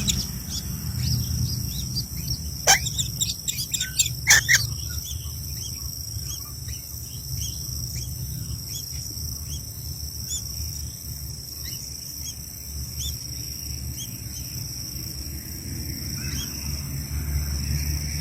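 Short bird chirps repeating every fraction of a second over a steady high-pitched insect drone, with a few sharp knocks about three and four and a half seconds in.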